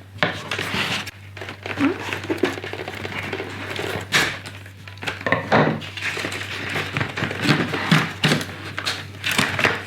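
Plastic packaging and small plastic parts of a toy sewing kit being handled: irregular crinkling and rustling with a few light knocks and clacks.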